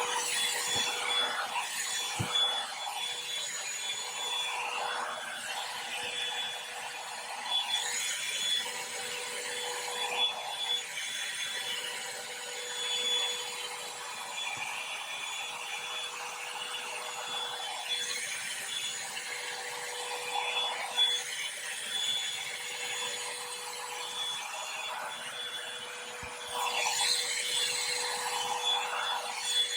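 Revlon hair dryer brush running, a steady whine over rushing air, with its bristles rasping through hair in repeated strokes that swell every few seconds.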